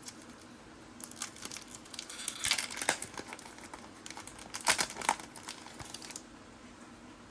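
Paper-and-foil crinkling and rustling as a trading card pack wrapper and its cards are handled, in irregular bursts that are loudest about two-thirds of the way through and stop about six seconds in.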